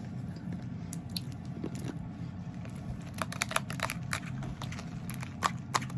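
Someone chewing a mouthful of ice cubes and pomegranate seeds in coconut water, crunching close by. The crunches are sparse at first and come quickly and irregularly in the second half.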